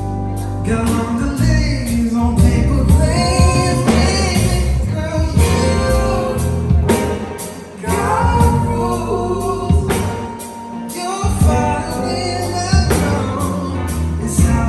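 Live pop song performance: a singer's voice over a band with a steady drum beat.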